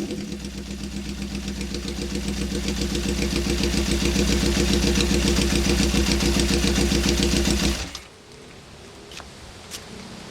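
1972 Honda CB750 K2's inline-four engine idling through straight pipes with an even pulsing beat, then shutting off abruptly about eight seconds in. The motor sounds tight, with no piston slap or valve train noise.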